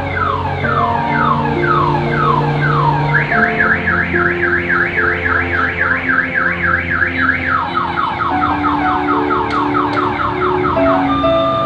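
Electronic siren-like alarm cycling through its patterns: falling whoops, then a fast up-and-down warble about a third of the way in, then quicker falling whoops that stop near the end. Background music with held notes plays underneath.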